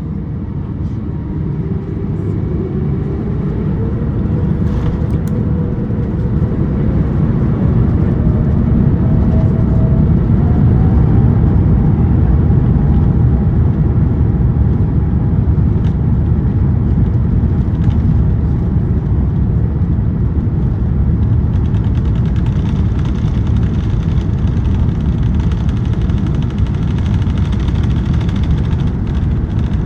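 Airbus A350-900's Rolls-Royce Trent XWB engines at takeoff power, heard inside the cabin: a loud, deep, steady rumble that builds over the first ten seconds, with a whine rising in pitch during that time.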